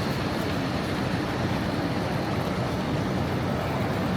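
Steady low rumble and hum of a busy railway station, with no single event standing out.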